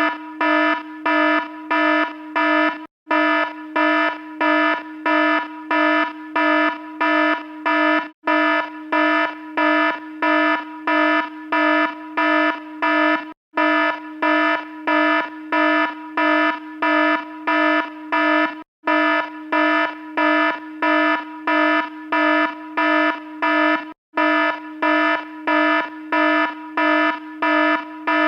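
Electronic alarm beeping about twice a second, one harsh, buzzy tone at a fixed pitch. It cuts out for an instant roughly every five seconds.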